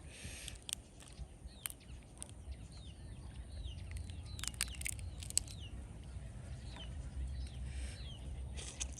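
Small birds chirping over and over in short falling calls, with a few sharp clicks and a steady low rumble underneath.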